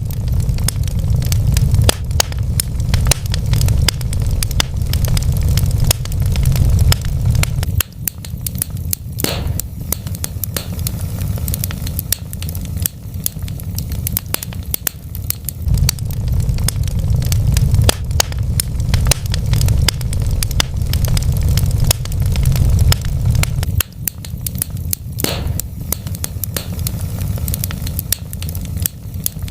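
Wood fire crackling, with rapid small pops and snaps over a low rumble that swells and drops every several seconds. A louder snap comes about nine seconds in and again near the end.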